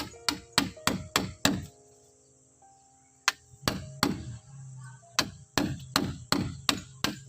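Hammering: runs of sharp blows at about three a second, a short run of three about halfway, then another steady run near the end.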